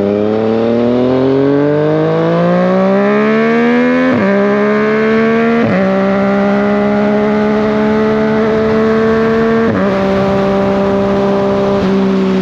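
Yamaha MT-09's three-cylinder engine accelerating under load, its pitch climbing steadily for the first four seconds. Short dips in pitch about four, five and a half, nine and a half and twelve seconds in mark gear changes, with the engine holding a fairly steady note between them.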